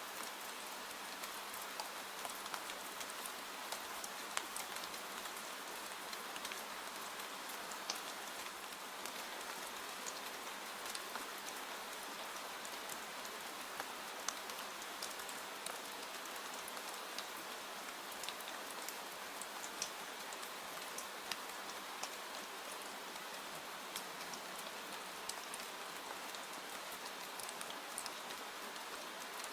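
Steady rain: an even hiss with scattered sharper ticks of individual drops.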